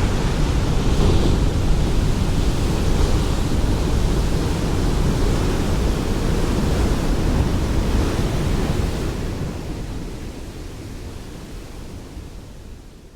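Ocean surf: a steady rush of breaking waves, heavy in the low end, that fades away over the last few seconds.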